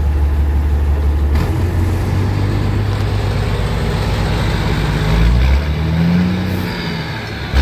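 M35A2 army truck's multifuel diesel engine running while driving. The low drone shifts about a second and a half in, and between about five and seven seconds in the engine note rises and then falls, as it revs through a gear.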